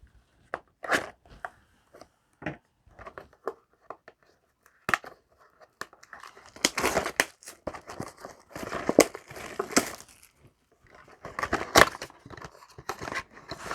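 Trading card packaging being torn open and crinkled, with scattered small clicks and then three longer stretches of crinkling and tearing.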